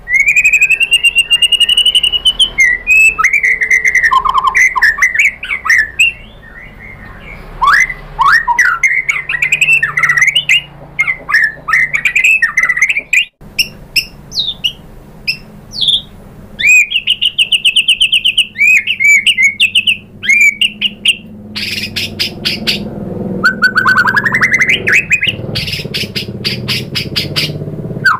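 White-rumped shama (murai batu) singing a long, varied song of clear whistled phrases, rapid trills and sweeping notes, with harsh buzzy rattles later on, as it runs through mimicked notes of other birds.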